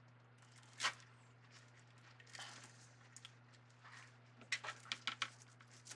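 Faint crinkling and clicking of deco mesh being handled and twisted onto a wire wreath form, over a steady low hum. There is a sharp click about a second in and a quick run of rustles and clicks near the end.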